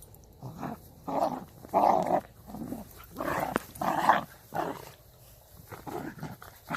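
Puppies growling and yapping in play-fighting: a quick string of short calls, loudest between about one and four and a half seconds in, fainter near the end.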